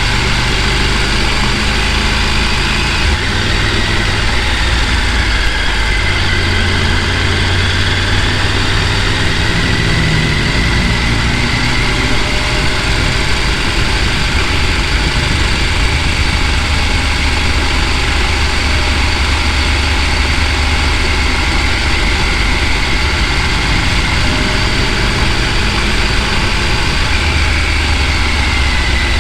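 A vehicle's engine running steadily, with a loud low rumble that shifts a little about three seconds in and again near the end.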